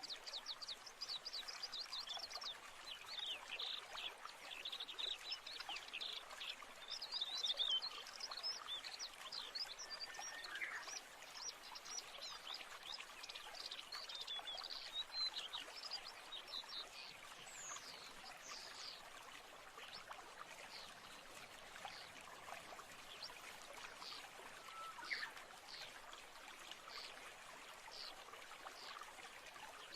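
Small birds chirping and twittering over the steady hiss of running water. The chirping is dense in the first half and thins to scattered single calls later.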